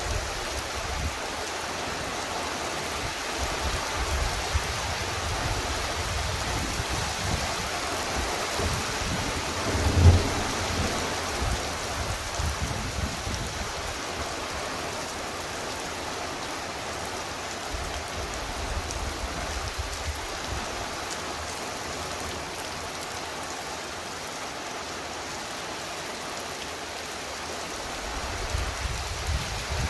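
Heavy, torrential rain falling steadily. About a third of the way in there is a short, loud rumble of thunder, and more thunder starts to rumble near the end.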